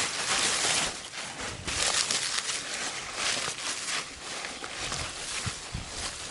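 Rustling and crackling of lettuce leaves as the plant is pulled up and handled, in irregular bursts, loudest in the first second.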